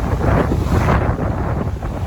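Sea waves washing, with wind buffeting the microphone as a constant low rumble.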